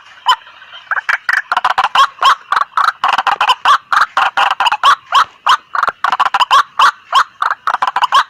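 White-breasted waterhens calling noisily: a rapid, continuous chatter of short, sharp notes, several a second, which picks up about a second in after a brief lull.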